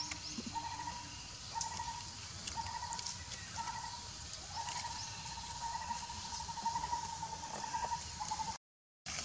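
A bird calling a level, even-pitched note about once a second, the notes running almost together for several seconds in the second half, over outdoor ambience. The sound cuts out completely for about half a second near the end.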